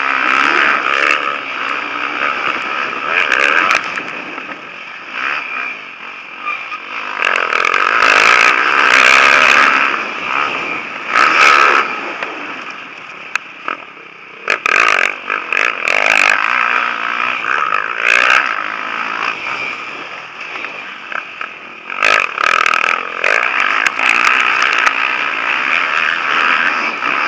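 Motocross bikes racing on a dirt track, their engines revving high and rasping as riders go by, swelling loud several times and fading between passes.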